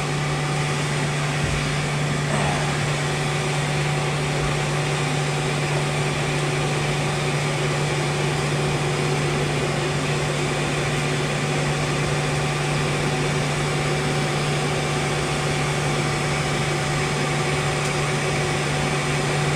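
Electric blower on a coal forge running steadily, a constant motor hum with the rush of air being forced into the fire while the workpiece heats.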